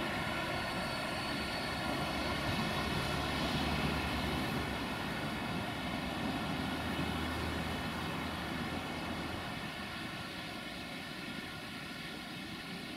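Freight train's wagons rolling away over the rails: a steady rumble with a ringing hum on top, slowly fading.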